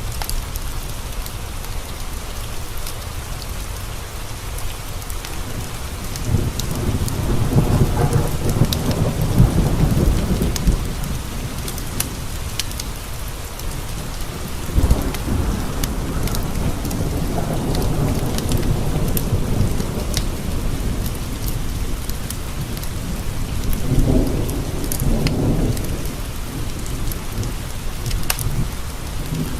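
Steady rain with rolling thunder. Long rumbles build about six seconds in and again around fifteen seconds, and a shorter one comes near the end. Scattered sharp ticks run through it.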